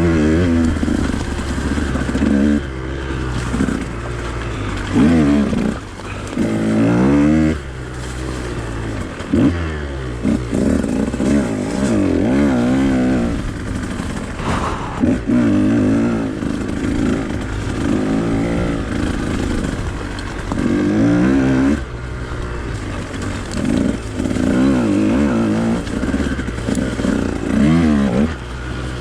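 Husqvarna TE 150 two-stroke dirt bike engine being ridden hard, revving up and falling back over and over as the throttle is worked, the pitch rising and dropping every second or two.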